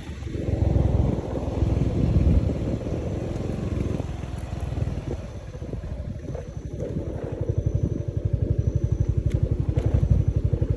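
Motorcycle engine running during a ride, with a low rumble; in the second half its firing pulses become distinct and evenly spaced.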